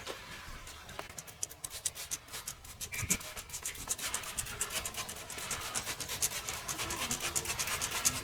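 Brush scrubbing a car surface in quick, rapid strokes that grow busier about a second and a half in.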